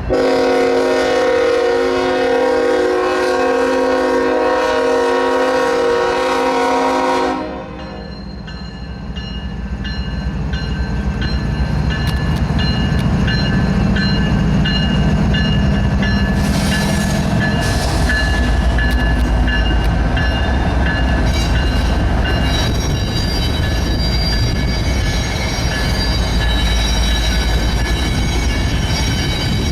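Freight train's multi-chime air horn sounding one long chord that cuts off after about seven seconds, followed by the locomotive's diesel rumble and the auto rack cars rolling past on the rails, with faint high ringing tones from the wheels.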